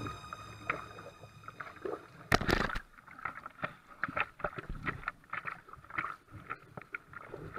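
Kayak paddle splashing in seawater and small waves slapping the hull, with one louder splash about two and a half seconds in, then a run of small irregular splashes and drips.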